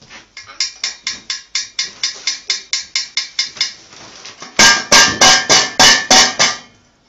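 Rapid tapping on a dish, about five taps a second. Just past the middle it turns into a louder run of ringing strikes, about four a second.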